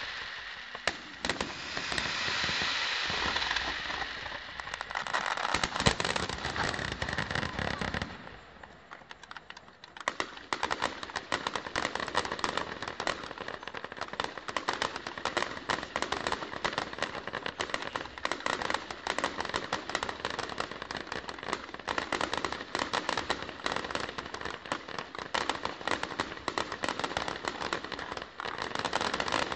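Fireworks display with many aerial shells bursting along a wide front, a dense rushing roar with sharp blasts for about the first eight seconds. After a brief lull it turns into a long, dense crackling of countless small reports.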